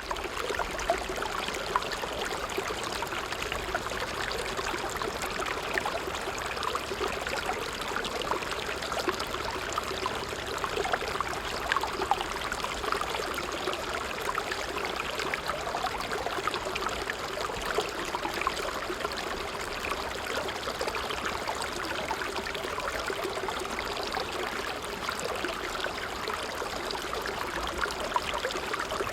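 A small stream running over stones: steady babbling and trickling water.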